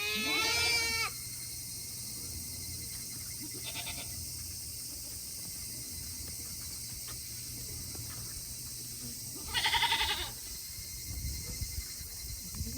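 Goats bleating: a loud, wavering bleat right at the start, a faint short one about four seconds in, and another loud bleat about ten seconds in.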